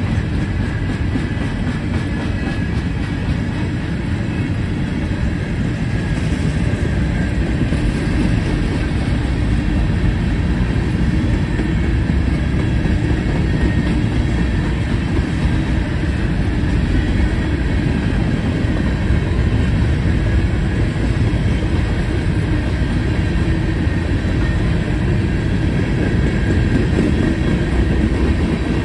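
Covered hopper cars of a CSX freight train rolling past: a steady rumble of steel wheels on the rails, even throughout.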